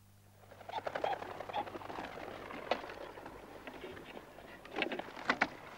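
Birds chirping and calling in quick, overlapping short notes, mixed with clicks and scratchy taps. The sound starts about half a second in, after near silence.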